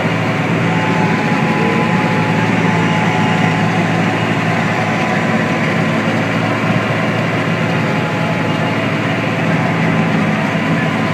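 Tractor engine running steadily, a constant low hum that holds an even level throughout.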